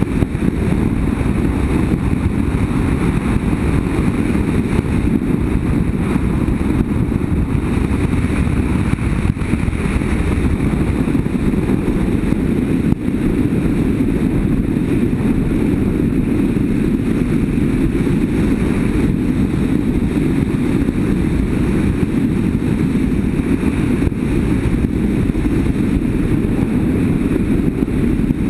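Motorcycle riding along at a steady speed: an even engine drone mixed with wind rush over the microphone.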